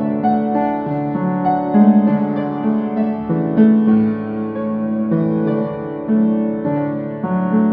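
Instrumental music led by piano or electric piano, playing a slow gospel hymn melody over held chords.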